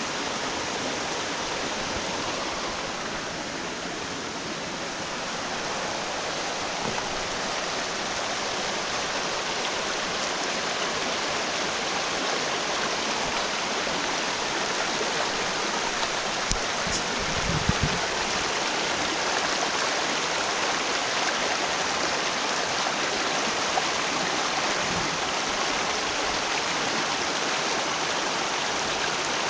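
Rain-swollen mountain stream rushing and splashing steadily, the water running higher after a spell of heavy rain. A few brief low thumps sound a little past halfway.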